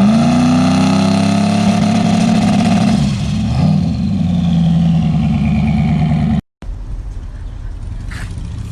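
Turbocharged 370 cubic inch LS V8 in a Chevy S10 race truck revving up hard and held at high revs. It eases off about three seconds in and picks up again. The sound cuts off abruptly about six and a half seconds in, and a quieter running engine follows.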